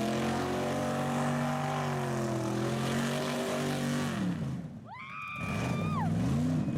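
A vehicle engine running at a steady speed, its pitch dropping as it slows about four seconds in. A high whistle-like tone then glides up, holds for about a second and falls away, while the engine revs lightly up and down.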